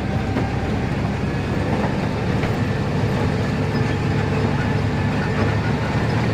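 A heavy truck's diesel engine running steadily at driving speed, with a low hum and road rumble.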